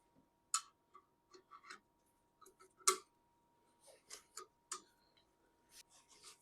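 Irregular sharp clicks and light taps of small parts and hand tools being handled, about fifteen in all, the loudest about half a second in and about three seconds in.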